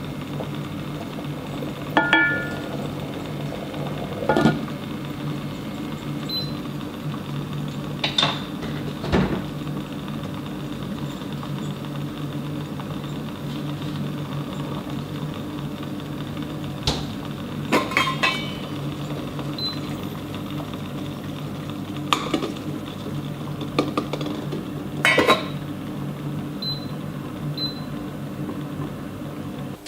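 A kitchen appliance hums steadily, with sharp clinks and knocks of dishes and utensils about ten times. The hum cuts off suddenly at the end.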